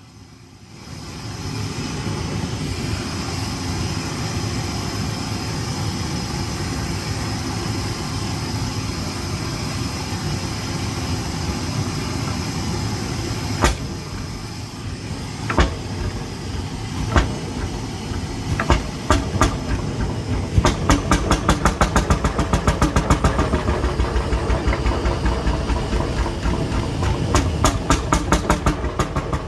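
1957 McDonald type YD two-stroke hot-bulb engine being started for the first time in many years after a rebuild: a steady hiss, then single firing knocks a second or two apart that come closer together until the engine catches and runs with a regular knock, several beats a second.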